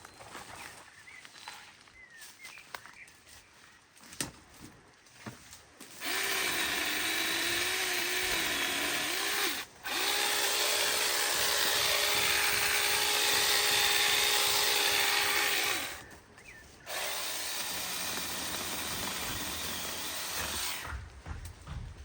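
Power tool motor running in three runs: a loud run of about four seconds whose pitch wavers as it works, a brief stop, a loud run of about six seconds at steady pitch, then a quieter steady run near the end. Quiet rustling and knocks come before it.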